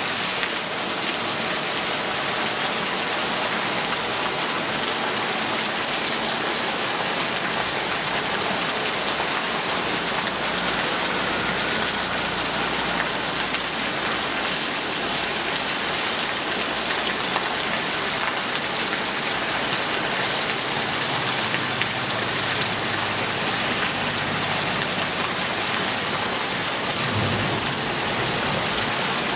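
Heavy rain falling steadily on puddled ground and trees, with streams of roof runoff splashing into puddles. A low rumble sits under it for a few seconds near the end.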